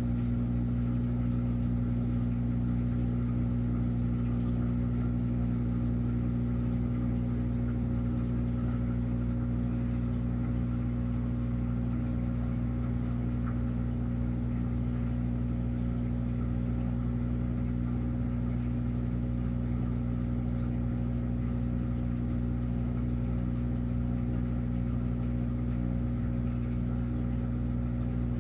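Washing machine running with a steady, unbroken motor hum.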